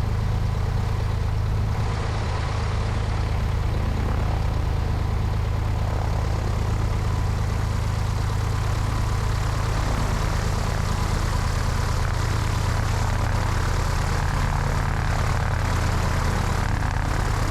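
Cessna 172's piston engine and propeller running steadily, with wind noise, heard from a wing-mounted camera.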